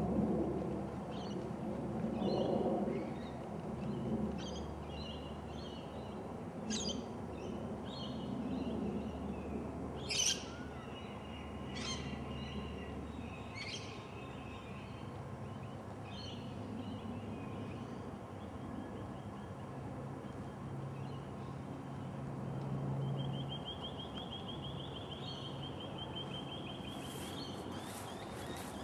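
Birds chirping and calling on and off, with a rapid trill a few seconds before the end, over a low steady rumble.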